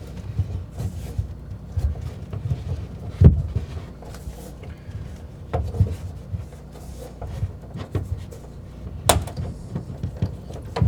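Scattered knocks and clunks of work on CPVC water supply pipes through a hole in the subfloor. A heavy thump comes about three seconds in, and a sharp click near the end.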